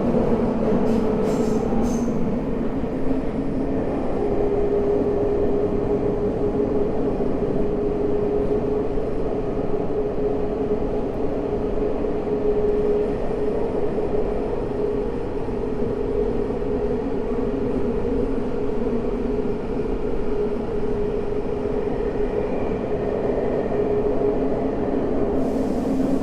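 Tokyo Metro 05 series subway car running between stations, heard from inside: a steady rumble of wheels on rail with a constant whine from its traction motors and gears.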